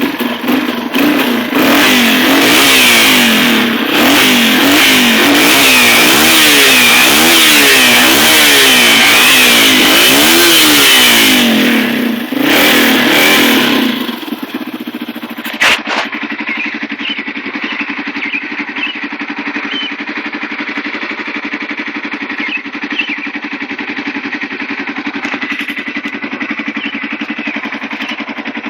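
Yamaha TT-R225's single-cylinder four-stroke engine being revved, its pitch rising and falling over and over for about the first half, then dropping back to a steady idle. A single sharp knock comes shortly after it settles.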